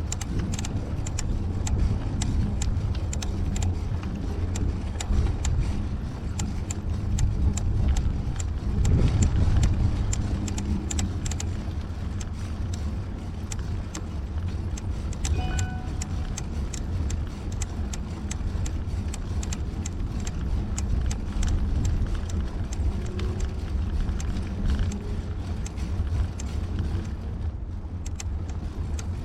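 Wind buffeting and road rumble on a helmet- or bike-mounted action camera during a bike ride, with a constant low roar and many small rattles and clicks. A brief short tone sounds about halfway through.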